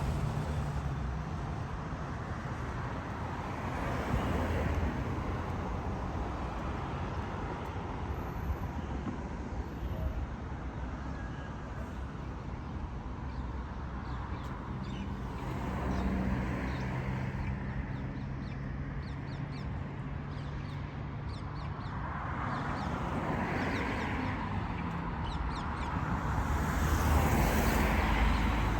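Road traffic: a steady rumble of engines and tyres, with vehicles passing and swelling louder three times, most strongly near the end.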